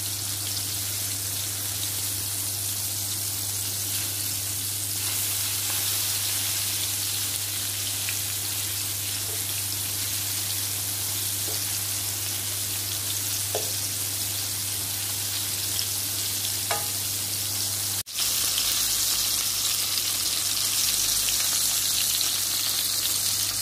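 Flour-coated chicken breast cutlets sizzling as they shallow-fry in a little oil in a frying pan, a steady hiss with a low hum underneath. A little after two-thirds of the way in the sizzle gets louder.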